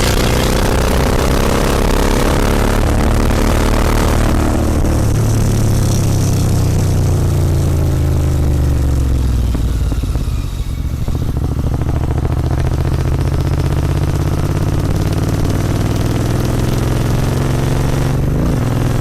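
Royal Enfield Continental GT 650's parallel-twin engine running through an aftermarket Red Rooster exhaust while riding. The engine note drops over the first few seconds, holds steady, dips and climbs again about ten seconds in as the rider rolls off and back on the throttle, then settles into a steady cruise.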